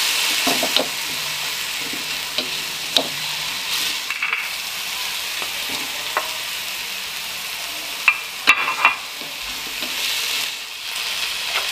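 Ground chili and shallot sambal paste sizzling in hot oil in a wok while a wooden spatula stirs and scrapes it, with a few sharp taps about eight seconds in.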